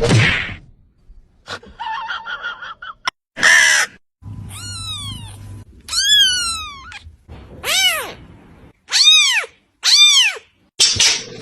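Cats meowing: a string of short calls that rise and fall in pitch, the clearest three about a second apart near the end, with brief noises and a short cry between them.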